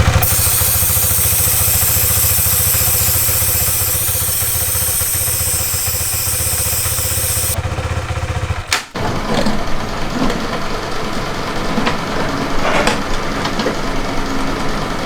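Motorcycle engine running at low revs as the bike pulls away slowly in first gear, with a steady hiss over it. About nine seconds in the sound breaks off and gives way to quieter, mixed engine and street noise.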